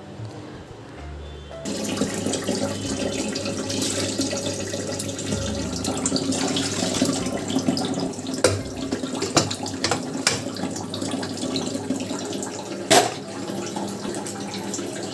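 Water running from a tap into a sink, starting about two seconds in, with a few sharp knocks and clinks over it.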